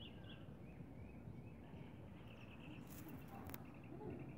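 Faint birds chirping in short repeated calls over quiet outdoor background, with two sharp clicks about three seconds in.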